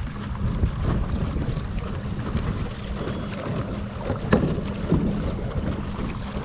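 Wind buffeting the microphone and choppy water splashing against a kayak hull, over the faint steady hum of an electric trolling motor running at full speed into the wind.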